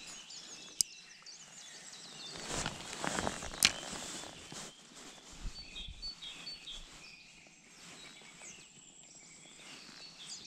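Small birds chirping in the background, with two sharp clicks, one about a second in and a louder one about four seconds in, and a brief rustle just before the second click.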